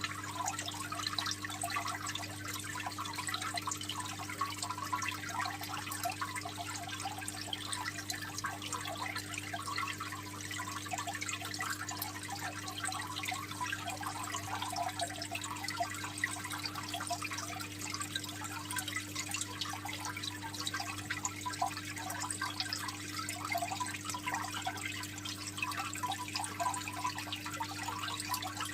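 Aquarium water trickling and bubbling steadily, a dense patter of small splashes, over a steady low hum.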